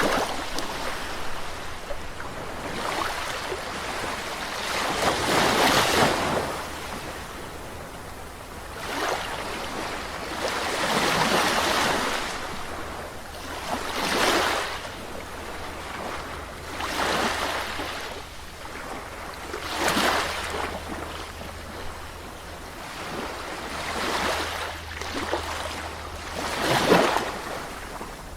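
Calm sea waves breaking and washing up a shore. The surges come one after another every two to three seconds, each swelling and then fading away.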